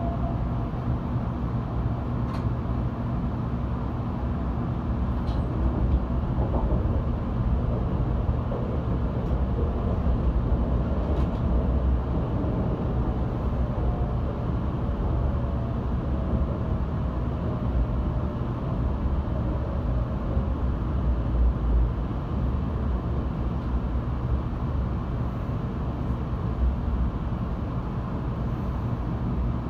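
Steady interior running noise of an 800-series Shinkansen car: a constant low rumble of the running gear with a faint whine that slowly falls in pitch over the first twenty seconds as the train slows for a stop, and a few faint ticks.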